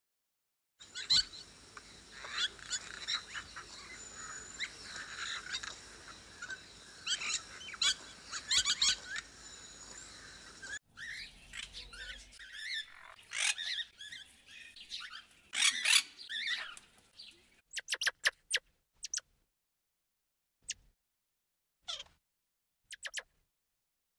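Birds chirping and calling over a steady high-pitched background tone. The sound changes abruptly about eleven seconds in to another run of calls, which gives way to a few short, sharp chirps spaced a second or two apart.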